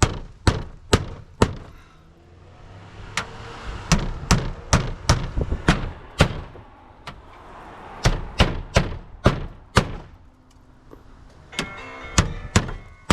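Hammer driving roofing nails to secure the flashing under the shingles: runs of four to seven sharp blows, about two or three a second, with short pauses between runs. Near the end a phone starts ringing.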